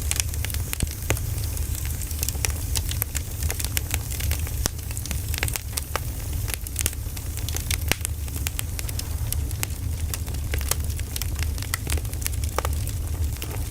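Burning firewood crackling, with frequent irregular sharp pops and snaps over a steady low rumble.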